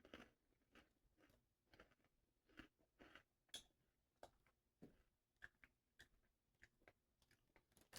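Faint, irregular crunches of someone chewing crunchy white cheddar corn puffs, a soft crunch every half second or so.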